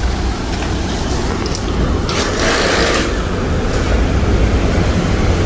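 Strong wind buffeting the microphone, a loud rushing rumble that swells about two seconds in.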